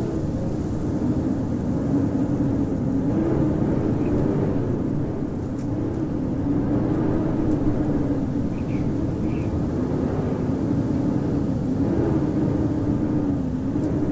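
Howling blizzard wind: a steady deep rush with a moaning tone that slowly wavers up and down in pitch.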